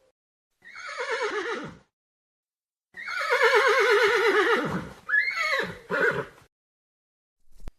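Horse whinnying: a short call falling in pitch, then a longer quavering whinny, then two short calls.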